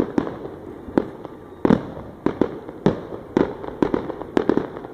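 Fireworks display going off: a rapid, irregular run of a dozen or more sharp bangs, with a low rumble between them.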